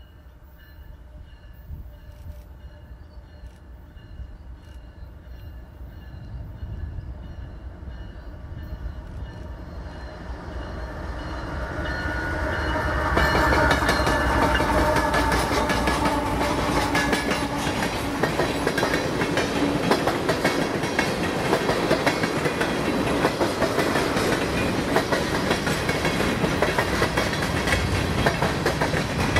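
Canadian Pacific freight train led by two GE diesel locomotives approaching and growing steadily louder, the locomotives' engines passing close by about halfway through. Freight cars then roll past with steady wheel clatter on the rails.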